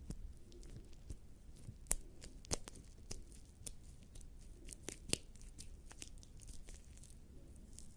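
Bare skin coated in lubricating jelly rubbed and scratched against the microphone: sticky, wet crackles and clicks over a soft rustle, with a few sharper snaps about two, two and a half and five seconds in.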